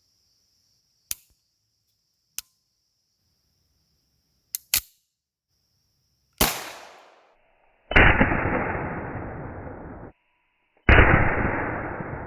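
SIG Sauer P226 9mm pistol: several sharp metallic clicks, then a gunshot about six seconds in. Two louder shots follow, each with a long tail that fades over about two seconds, the first tail cut off abruptly.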